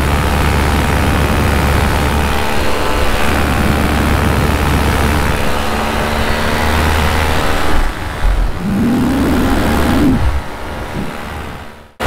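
Minari F1 two-stroke paramotor engine running steadily in flight, a loud drone with a strong low hum. It eases off about ten seconds in and then drops away sharply near the end.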